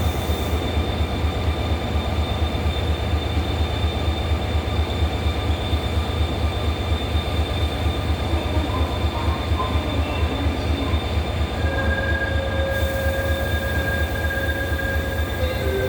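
Seoul Subway Line 1 train at a station platform: a steady low rumble with a constant high whine over it. About three-quarters of the way through, two further steady tones come in.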